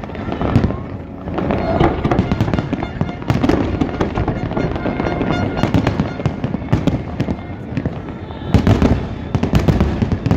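Fireworks display: a dense, nearly continuous run of bangs and booms with crackling between them, and a cluster of louder bursts near the end.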